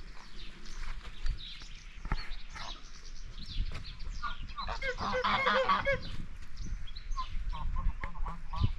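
Farm birds honking and calling over one another in short, goose-like calls, busiest about five seconds in.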